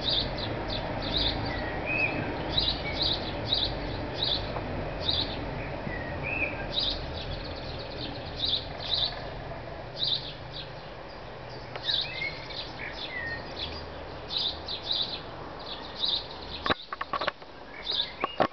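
Small birds chirping: many short, high chirps in quick runs, with a few lower sliding whistled notes now and then, over a steady low background hum. A few sharp clicks near the end.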